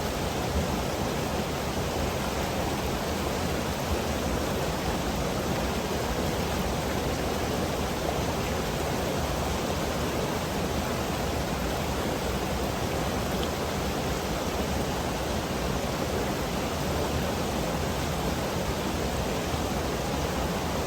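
Mountain river rushing steadily over rocks, a constant full-bodied roar of moving water.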